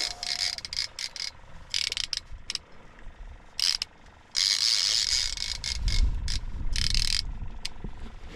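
Star-drag fishing reel cranked in short bursts, its gears clicking and whirring each time the line is wound in on a hooked fish. A low rumble comes in past the halfway mark.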